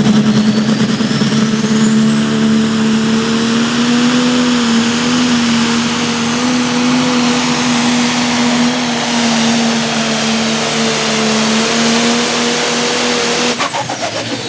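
Pro Stock pulling tractor's turbocharged diesel engine running flat out at a steady pitch under load, with a thin high whine climbing over the first two seconds. Near the end the engine drops off suddenly as the throttle is cut, and the whine falls away.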